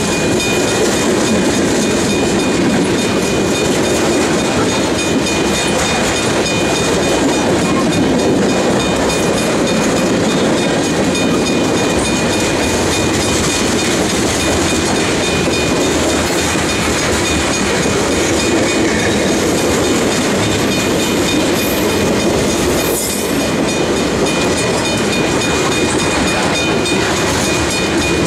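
Loaded freight cars of a heavy manifest train rolling past close by: a steady, loud rumble of steel wheels on the rails with a clattering rhythm.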